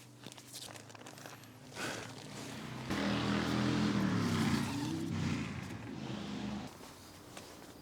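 A motor vehicle engine running with a low drone that wavers in pitch. It starts suddenly about three seconds in and cuts off about a second before the end.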